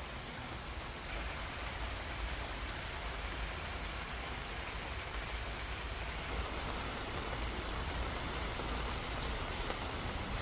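Steady rain falling, an even hiss with a few faint drop taps.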